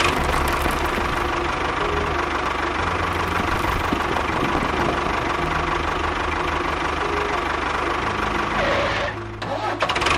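A small engine running steadily with a fast knocking chug, dipping briefly about nine seconds in and then picking up again.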